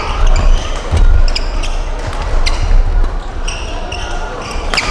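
Badminton rally in an indoor hall: a string of sharp racket hits on the shuttlecock, short high squeaks of court shoes on the floor, and low thuds of footsteps.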